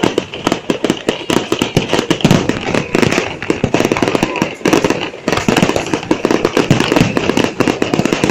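Fireworks going off in a dense, continuous barrage: many sharp cracks and bangs every second, overlapping into a steady crackle.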